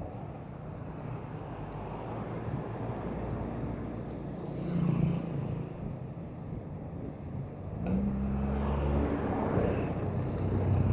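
Road traffic heard from a bicycle: motor vehicles passing with a steady low rumble, and engine hum swelling as vehicles come close, once around five seconds in and again for the last three seconds.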